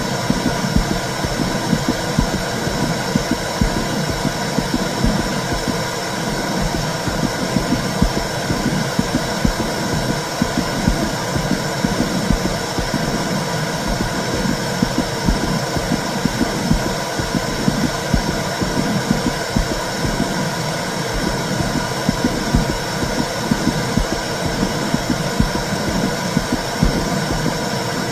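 Womb sound for soothing a baby: a steady, low whooshing rumble that pulses rhythmically.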